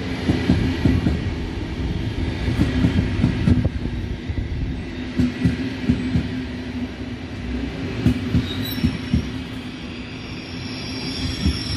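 SBB double-deck passenger train rolling past: its wheels knock irregularly over the rail joints and points over a steady low hum. A brief high wheel squeal comes about two-thirds of the way through, and more high squealing near the end.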